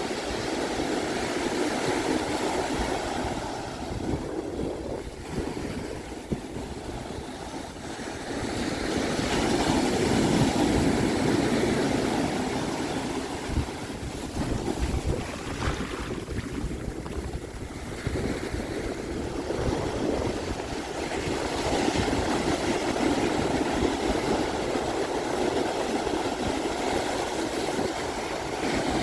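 Ocean surf breaking and washing onto a beach, a steady rush that swells and eases again a few times, with wind rumbling on the microphone.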